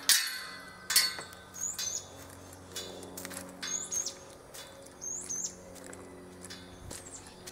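A sharp knock at the start and a louder one about a second in, then a small bird chirping three times, each a short high call with a quick up-and-down twist, over a low steady hum.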